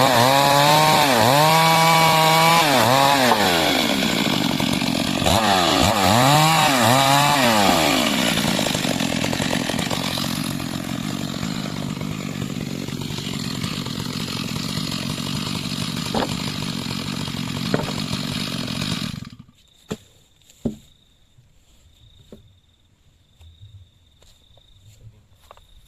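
Stihl MS 382 chainsaw running at high revs, its pitch dropping and rising twice, then running more steadily for about ten seconds before cutting off suddenly about three-quarters of the way through. After it stops, only a faint thin high tone and a few light ticks remain.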